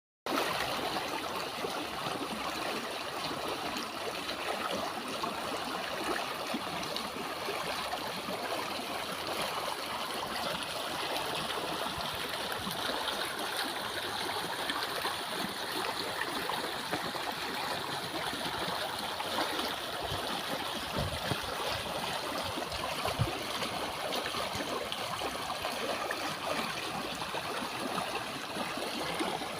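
Flash-flood runoff rushing and gurgling in a steady flow of water. A few brief low thumps come about two-thirds of the way through.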